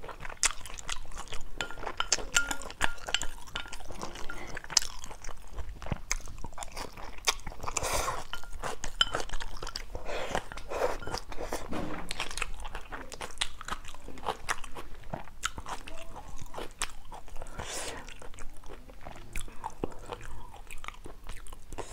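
Close-miked chewing and mouth noises of a person eating stir-fried instant noodles with squid and shrimp, with many small clicks of chewing and a sip from a small bowl about halfway through.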